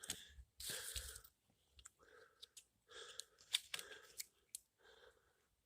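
Faint crunching and rustling of hands handling small objects, with a few short clicks.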